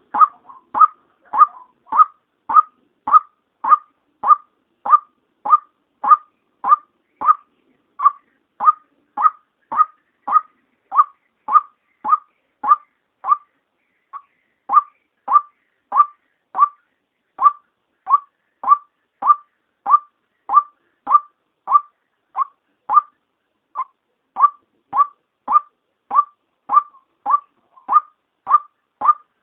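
Female white-breasted waterhen call, a short pitched note repeated monotonously about twice a second, with brief gaps about halfway and two-thirds of the way through. It is a recorded lure call, the kind played to draw waterhens in.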